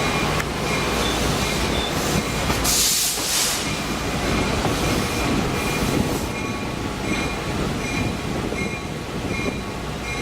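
Passenger train rolling along the track: a steady rumble of wheels on rail with short, repeated high squeals from the wheels, and a brief hiss about three seconds in.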